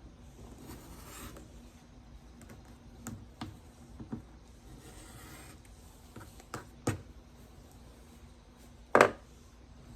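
Scattered small clicks, taps and rustles of fabric pieces and sewing tools being handled, with one louder knock near the end.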